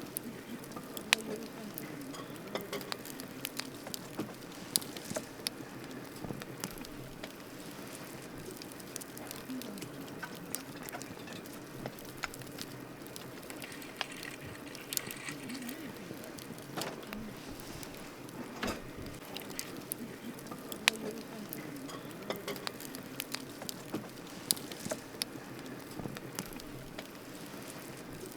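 Wood campfire crackling: irregular sharp pops and snaps, a few much louder than the rest, over a steady hiss of burning wood.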